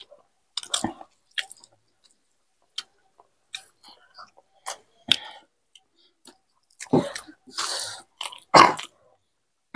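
Close-up mouth sounds of several people eating rice and egg curry by hand: wet chewing and smacking in short scattered bursts, louder and busier about seven seconds in.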